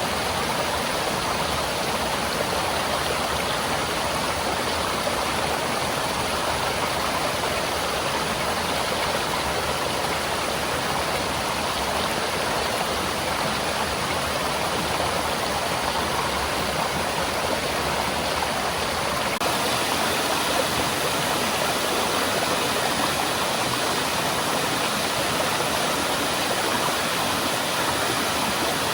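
Mountain stream waterfall, water rushing in a steady, dense roar of white water, a little brighter after a slight shift about two-thirds of the way in.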